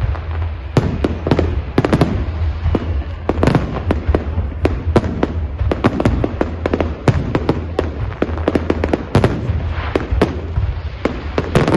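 Professional fireworks display: aerial shells bursting in rapid succession, several sharp bangs a second, over a steady low rumble.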